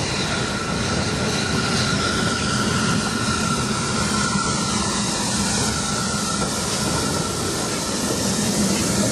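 Passenger coaches of a steam-hauled train rolling past close by: a steady rumble of wheels on the rails, with a thin high whine in the first few seconds.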